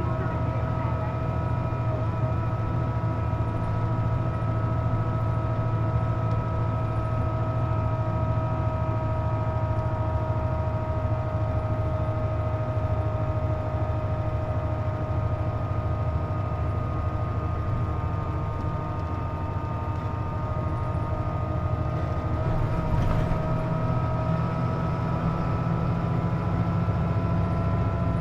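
Interior of a Hino KC-JP250NTN city bus under way: the engine and road make a low rumble, and over it runs a steady whine of several high tones. The uploader calls this whine the bus's strange noise and puts it down to the air conditioning running. Midway the whine sags a little in pitch and loudness, then rises again.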